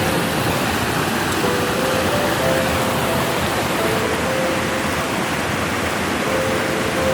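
Steady rushing noise, like running water or rain, under faint background music of soft held notes.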